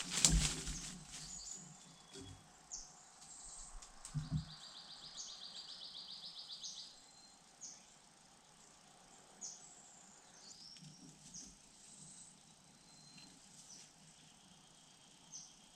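Woodland ambience: small birds calling with short, high chirps throughout, and a rapid pulsed trill from about three to seven seconds in. A low thump right at the start and another about four seconds in.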